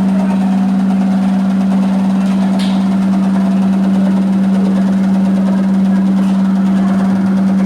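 Electrolux 15 kg commercial washing machine spinning its drum, a loud steady hum with one constant low tone, said to sound like a helicopter.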